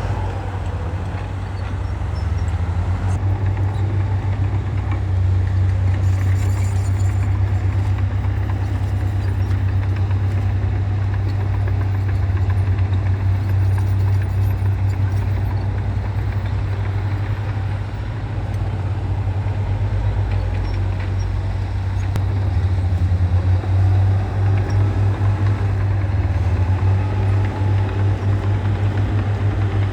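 Komatsu bulldozer's diesel engine running steadily at work, a deep low drone with a quick pulsing throb.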